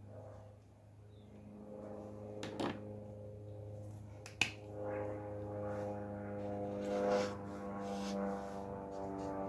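A low steady hum, two sharp clicks about two seconds apart, then sustained musical tones swelling in from about halfway through.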